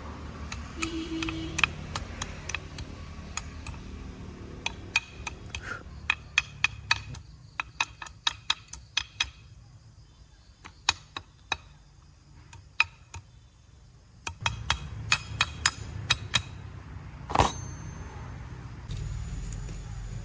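Irregular metallic clinks and taps of tools on metal parts, at times several a second, with one heavier knock near the end. A low steady hum drops away partway through and comes back.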